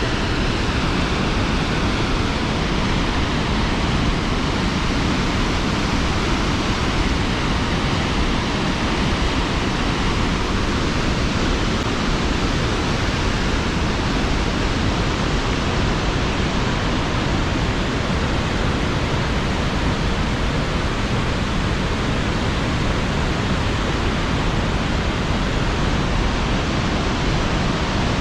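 Roar of a large waterfall, a steady, even rush of falling water at constant loudness.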